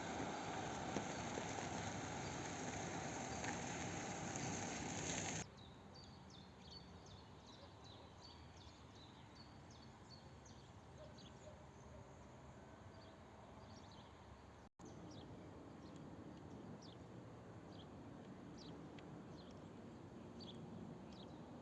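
Steady noise from the passing train, cut off abruptly about five seconds in. After that come quiet countryside sounds, with a small bird chirping again and again in short, high, falling notes.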